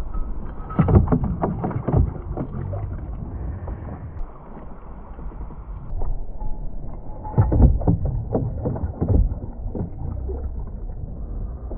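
Wind buffeting the microphone in a steady low rumble, with two bursts of knocks and water splashing against a kayak, about a second in and again around seven seconds. The sound is muffled.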